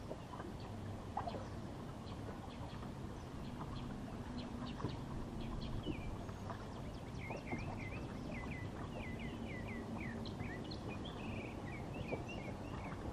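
Birds chirping, with a quick run of short falling chirps through the middle, over a steady low outdoor background rumble and a few light clicks.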